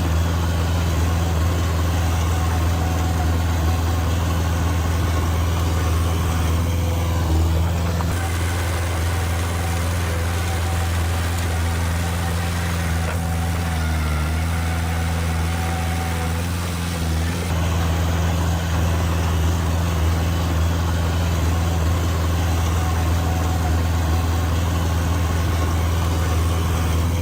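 Heavy diesel engine of earthmoving machinery running steadily at a low, even speed, its pitch shifting slightly a few times.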